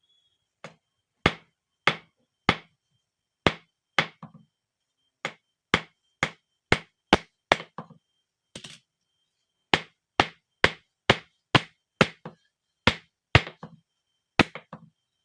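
Hand hammer striking a blade being forged from bearing steel on an anvil: about two dozen sharp blows, roughly two a second, in short runs with brief pauses between them.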